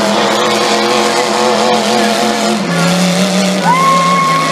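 Derby truck engines running hard under a loud noise haze, their pitch stepping down a little about two-thirds of the way through, with a high steady squeal starting near the end.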